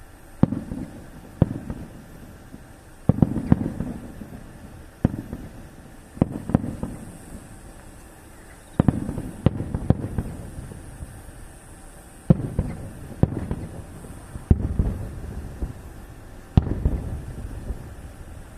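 Fireworks shells bursting in the sky: about a dozen sharp booms at irregular intervals, some in quick clusters, each trailing off in a low rumble.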